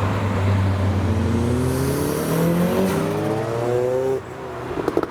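Modified Mazda MX-5 accelerating hard past. Its engine note climbs steadily for about three seconds, then drops off abruptly about four seconds in.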